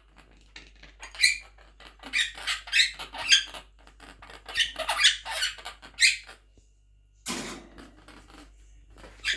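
Quaker parrot giving a run of short, high squeaky chirps, with a brief burst of noise about seven seconds in.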